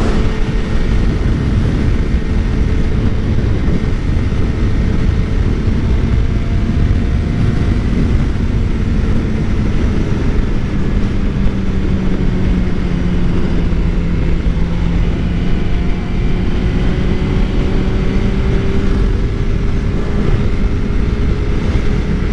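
2013 Suzuki GSX-R 600's inline-four engine running at a steady cruise under heavy wind rush on the microphone, its pitch drifting slowly.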